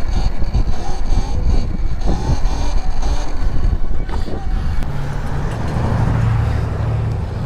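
Wind buffeting the microphone while riding an electric dirt bike with a group ride, with a steady low vehicle hum coming in about five seconds in.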